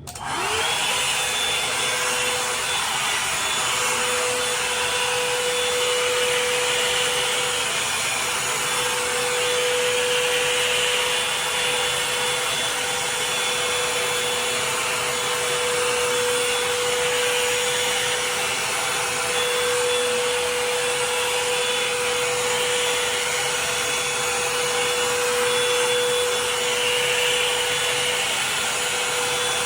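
Revlon hair dryer brush switched on at its high setting: the fan motor spins up with a rising whine in the first second, then runs steadily with a rush of air and a constant whine.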